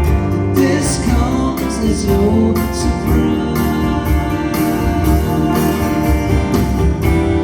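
Live band playing a song: electric guitars, bass and a steady drum beat, with a lead vocal.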